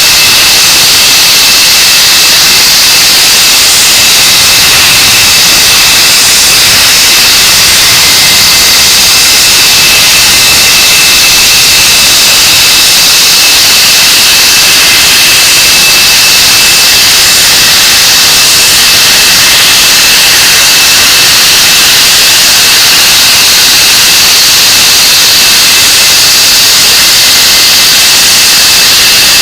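English Electric Lightning's Rolls-Royce Avon turbojet engines running: a steady, very loud jet roar with a high whine held at one pitch.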